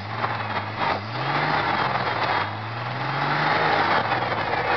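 Ford F-250 engine running through a Cherry Bomb muffler and revved up twice, the pitch climbing slowly each time, the second rev longer. The engine fan has been removed and the engine spools up freely.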